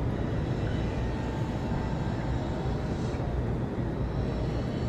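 Steady low outdoor rumble, like vehicle traffic and wind, with a faint hiss that fades out about three seconds in.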